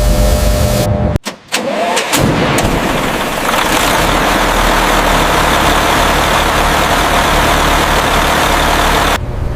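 A large engine starting up and then running steadily and loudly. The sound drops out briefly about a second in and picks up again, then cuts off abruptly near the end.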